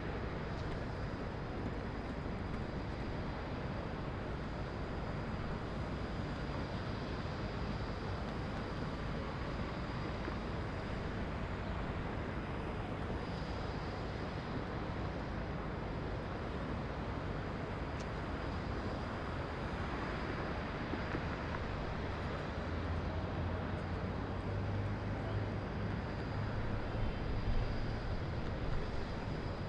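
Steady wash of distant city traffic noise. About two-thirds of the way through, a low engine drone joins in and swells near the end before fading.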